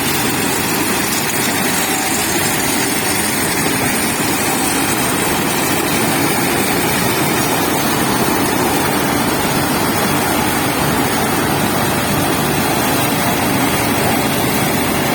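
Mahindra Arjun tractor-mounted Balkar combine harvester running steadily at work, set up for maize, making a loud, even machine noise.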